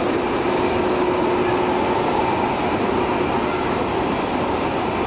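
Airbus A380 jet engines running, a steady rushing noise with a faint steady tone through it.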